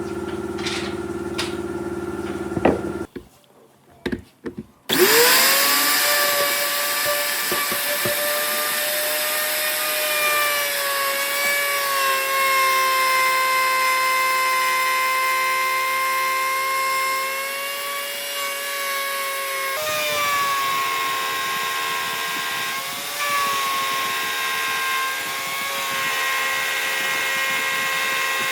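A steady hum for the first few seconds, a short near-silent gap with a few clicks, then about five seconds in an electric power tool spins up and runs with a steady whine as it works wood, its pitch sagging slightly now and then under load.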